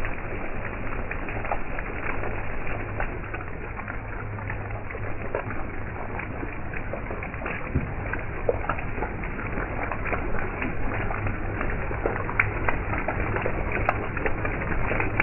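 Heavy rain pouring into standing water on pavement: a dense, steady hiss full of small sharp drop splashes and ticks, over a low steady hum.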